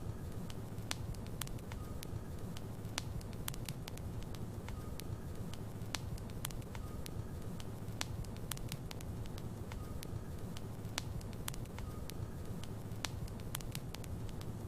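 Logs burning in a fireplace: a steady low rumble of flames with frequent sharp, irregular crackles and pops from the wood.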